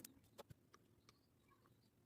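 Near silence, with a few faint sharp clicks, mostly in the first half second.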